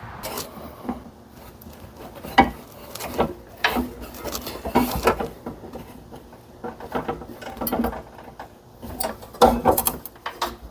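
Irregular light clicks, taps and knocks of hand tools and small metal parts being handled while working on a Briggs & Stratton small engine's breaker-point ignition.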